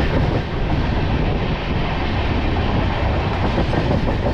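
Passenger train running at speed, heard from aboard: a loud, steady rumble of the wheels on the rails.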